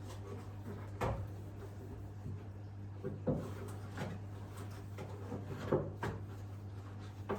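A few separate knocks and clicks of objects being handled, over a steady low hum.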